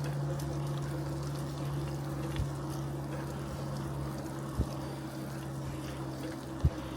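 Bicycle riding along a road: a steady rolling noise with a low hum, and three short low knocks about two seconds apart.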